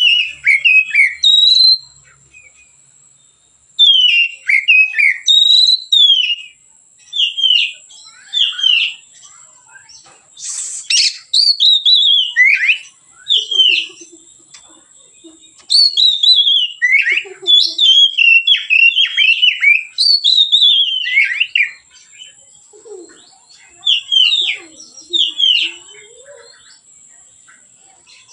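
Oriental magpie-robin singing: loud, clear whistled notes, most of them sliding downward, in phrases of a few seconds with short pauses between them.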